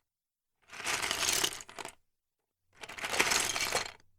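Loose plastic Lego bricks clattering together in two bursts of about a second each, with a short silence between them.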